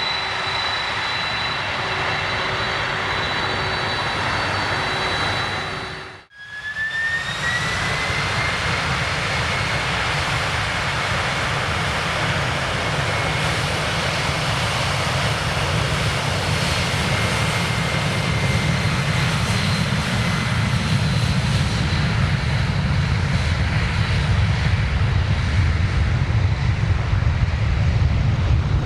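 Jet airliner engines whining, broken off abruptly about six seconds in. After the break, another jet's engine whine rises in pitch and levels off, while a deep rumble grows louder toward the end.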